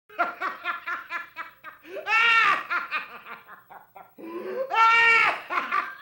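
One person laughing heartily: a quick run of "ha-ha" pulses, about five a second, then two long, high-pitched whooping laughs, about two and five seconds in.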